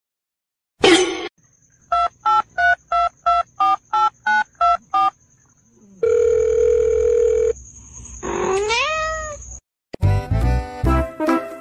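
Telephone keypad tones: about ten short two-tone beeps in quick succession, as a number is dialled, then a steady phone-line tone for about a second and a half. A short rising cry follows, and music comes in near the end.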